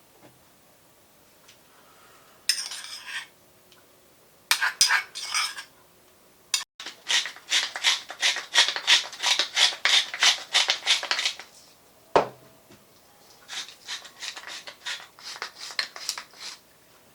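A metal utensil clinking and scraping against a bowl in fast, regular strokes, about four a second, in several runs, the longest lasting about five seconds, with a single knock about twelve seconds in.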